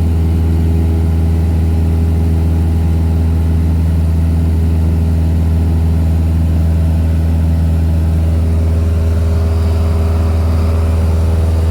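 Cessna 172's piston engine and propeller droning steadily.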